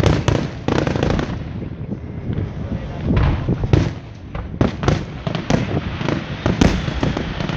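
Fireworks going off in rapid succession: many sharp bangs and crackles overlapping at an irregular pace, with a rumble beneath them.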